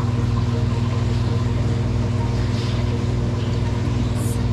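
Steady low machine hum at a fixed pitch, unchanging throughout, with a brief high hiss about four seconds in.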